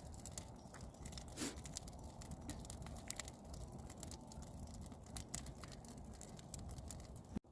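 Wood campfire crackling: irregular sharp pops and snaps over a low, steady rush, cutting off abruptly just before the end.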